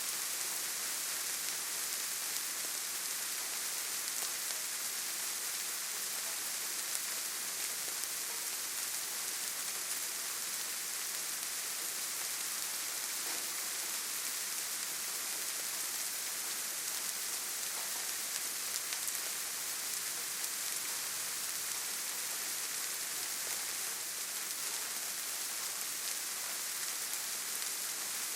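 Steady, gentle rain falling on leaves and the forest floor, an even hiss with faint individual drop ticks.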